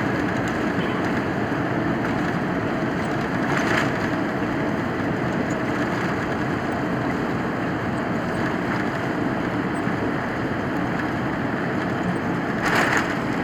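Steady rush of engine and airflow noise inside the cabin of a Boeing 787-9 powered by GE GEnx engines, with a faint steady hum; two brief louder swells of hiss break through, about four seconds in and near the end.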